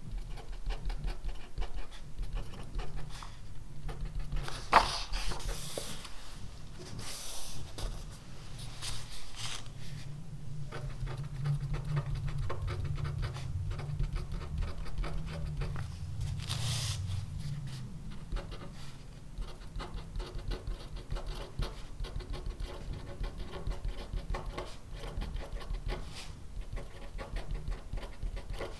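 Writing by hand on paper: many small scratches and taps of the writing tip, with one sharp click about five seconds in and a couple of brief paper rustles, over a low steady hum.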